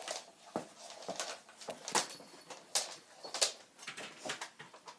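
A series of irregular sharp clicks and knocks, about half a dozen, with light rustling between them: handling noise, something being moved and set in place by hand.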